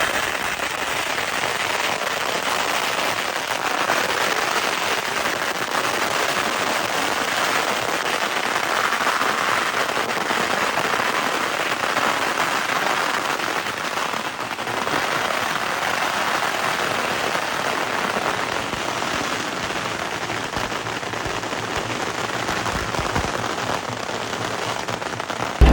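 Fireworks crackling densely and continuously, a steady crackle with a short dip about halfway through.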